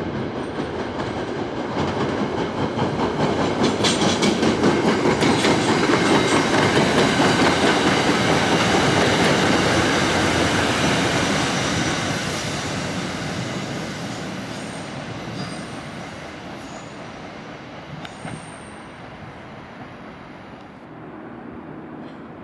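A passenger train passing through a station. The sound swells and peaks for a few seconds, with the wheels clicking rapidly and regularly over the rail joints, then fades away as the train recedes. Thin high wheel squeals come in as it fades.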